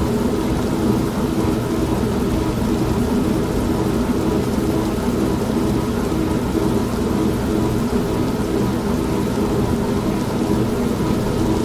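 Old manual washing machine running with a steady motor hum, mixed with steady rain and a low rumble.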